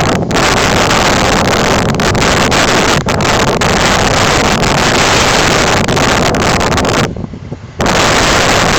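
Heavy wind buffeting on the microphone over a John Deere 9530 tractor's diesel engine running steadily. The wind noise drops away for under a second about seven seconds in.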